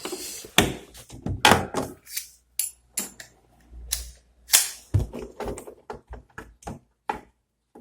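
Plastic parts of a washing machine being pressed and snapped into place: a quick, irregular series of clicks and knocks.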